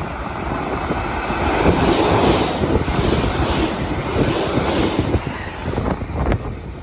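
A JR Central 383 series electric limited-express train passing through the station at speed. The wheel and rail noise and rushing air swell over about two seconds, stay loud, then ease as the last car goes by, with a few sharp clicks near the end.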